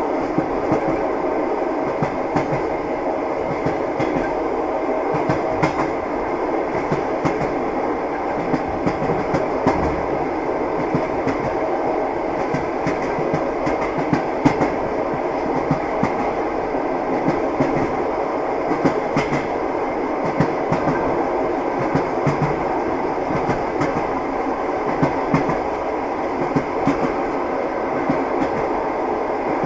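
Train wheels rolling over rail joints, a steady rumble with repeated clickety-clack knocks, as heard riding in a railway carriage.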